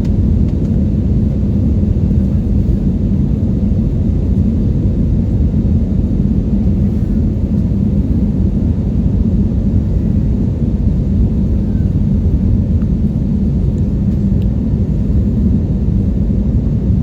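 Steady low rumble of an airliner's engines and rushing air, heard from inside the cabin.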